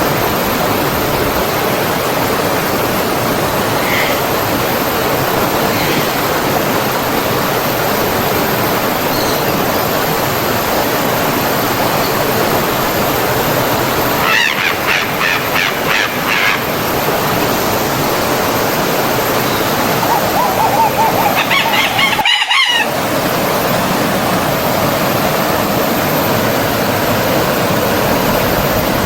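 Forest stream water flowing steadily. Birds call twice over it, a quick wavering trill about halfway through and a longer warbling call about three-quarters through. Just after the second call the sound cuts out for a split second.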